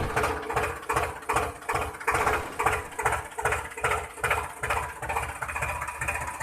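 Tractor engine sound chugging at idle in a steady rhythm of about three beats a second.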